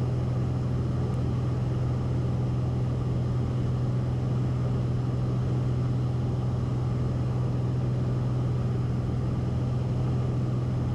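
Cessna 172RG's four-cylinder engine and constant-speed propeller droning steadily at cruise power, heard inside the cockpit.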